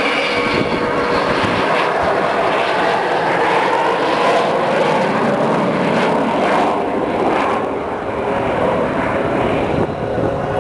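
Avro Vulcan bomber's four Bristol Olympus 202 turbojets running loud and steady as the aircraft flies past.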